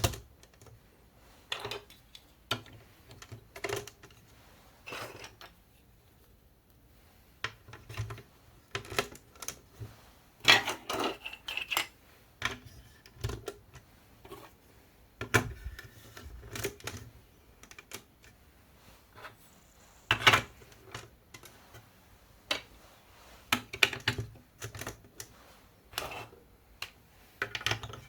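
Marble run building pieces being handled and set in place: irregular light clicks and knocks, separated by pauses, with a quick flurry of clatter about a third of the way in.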